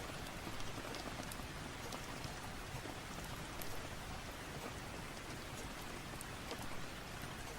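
Steady rain falling, an even hiss with scattered faint clicks.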